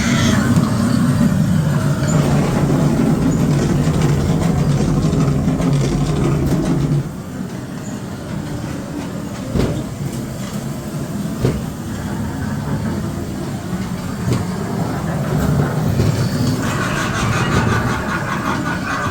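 Ghost train ride car running along its rail track, loud for the first seven seconds and then quieter, with a few knocks along the way.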